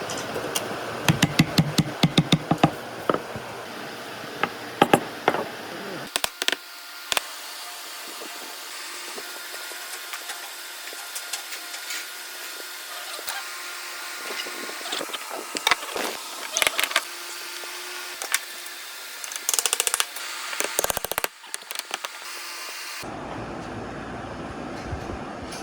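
Workshop work on wood: clusters of sharp taps and knocks over a steady background hum, the sound changing abruptly twice.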